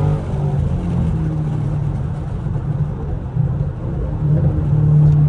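Chevrolet Camaro SS's 6.2-litre V8 running with a muffler delete under acceleration, heard from inside the car. The engine note falls in pitch shortly after the start, then grows louder toward the end.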